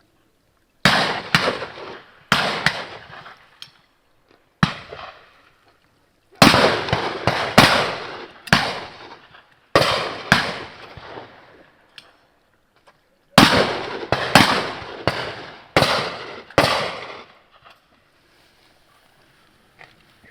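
Shotguns firing at driven game birds: about fifteen shots in quick groups, some as doubles a fraction of a second apart, each report trailing off in an echo.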